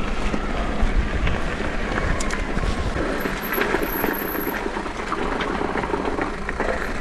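Electric mountain bike riding along: steady tyre rolling noise and wind on the camera microphone, with scattered small clicks and rattles from the bike.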